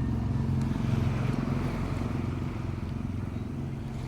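A motor vehicle's engine running steadily, a low drone that eases off slightly near the end.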